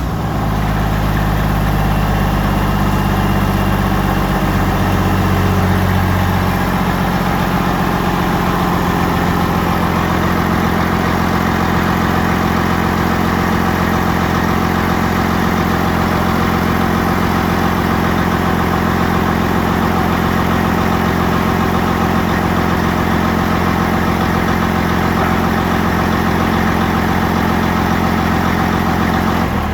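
FPT Cursor 13 inline-six diesel crate engine idling steadily just after starting, on a test run. Its note shifts slightly about five seconds in, then holds steady.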